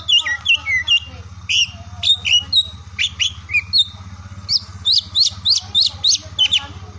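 Oriental magpie-robin (kacer) singing a rapid, varied song of short whistled notes and sliding chirps, several notes a second, over a faint steady low hum.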